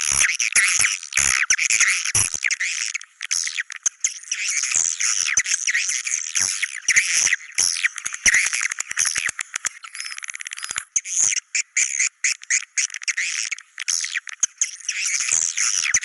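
Swiftlets twittering in a dense, rapid chorus of high chirps with no low end, thinning with brief gaps a few times; a 'Goa China' swiftlet call track of the kind played from swiftlet houses to lure the birds in to nest.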